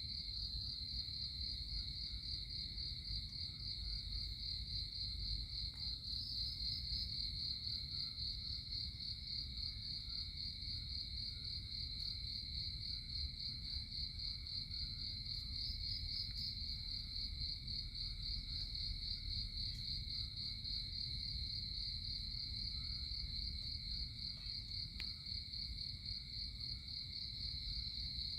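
Insects chirring in one continuous, high-pitched, finely pulsing trill, with a low rumble underneath.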